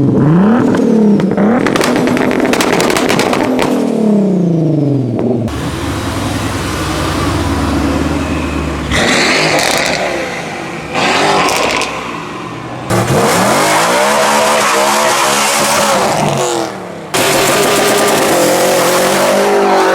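Car engines revving hard, their pitch rising and falling again and again, in several short segments that change abruptly. Later segments carry loud rushing noise over the engines.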